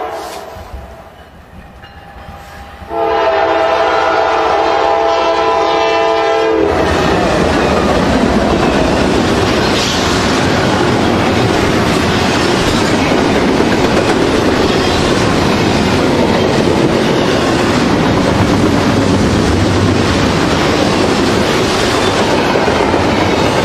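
A GE C44-9W diesel locomotive's multi-tone horn sounds one steady blast of about four seconds, starting about three seconds in. The horn cuts off as the locomotives pass, loud and close. Double-stack intermodal well cars follow, rolling by with steady wheel rumble and clickety-clack.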